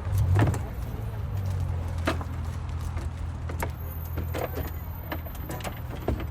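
Scattered clicks and knocks of bicycles being handled and loaded, over a steady low vehicle rumble.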